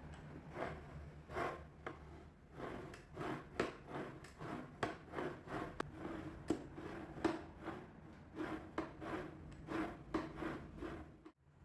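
Rhythmic hand-abrading strokes, a dry rubbing rasp on a workpiece, about two strokes a second over a faint low hum; they stop suddenly near the end.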